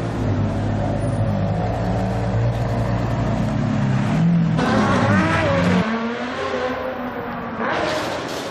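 Supercar engine running with a deep, steady note, then revved up and down about four and a half seconds in, cutting off sharply near six seconds. Another rev starts near the end.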